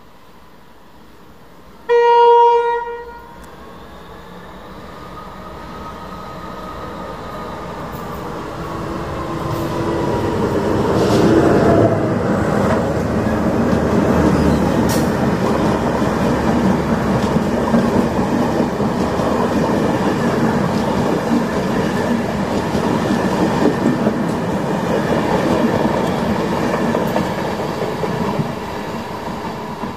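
Enterprise passenger train running through a station at speed: its Class 201 diesel locomotive gives one short horn blast about two seconds in, then the rumble of locomotive and wheels builds up and holds loud and steady, with clickety-clack of the coaches passing over the rail joints, easing off near the end.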